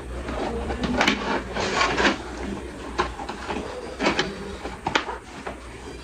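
Plastic parts of a new electric fan being handled and fitted together during assembly: sharp clicks and knocks about once a second over rustling and clattering.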